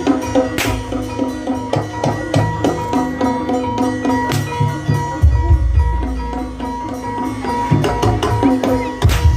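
Javanese gamelan music accompanying an ebeg (kuda lumping) dance: kendang hand drums beat a fast pattern over ringing metallophone notes, and deep low strokes come in about five seconds in.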